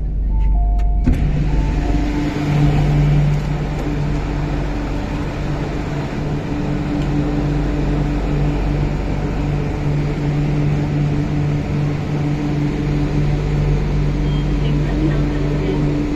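MTR Kwun Tong Line Q-Train running between stations: steady wheel-and-rail noise with a constant-pitched motor hum. The noise swells suddenly about a second in.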